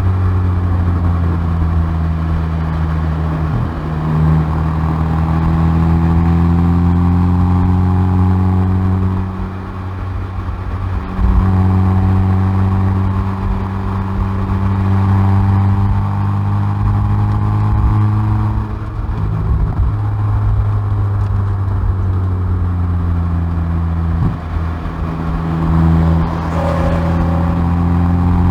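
Hyundai i30N Performance's turbocharged 2.0-litre four-cylinder heard at the exhaust from the rear bumper, pulling hard on track. The note climbs steadily in pitch, then drops sharply at each gear change, several times, with a short lift about nine seconds in before it pulls again.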